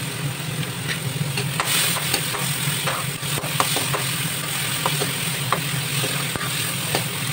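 Chopped onion, tomato and garlic sizzling in a kadhai while a wooden spoon stirs them, with scattered short knocks of the spoon against the pan. A steady low hum runs underneath.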